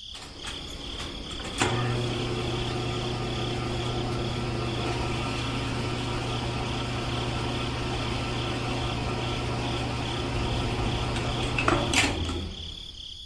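A small electric motor runs steadily with a low hum and a high whine. It starts with a click about two seconds in and stops near the end.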